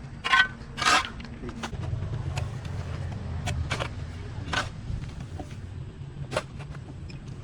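A motor running steadily with a low hum that swells for a couple of seconds, with scattered sharp clicks and knocks over it.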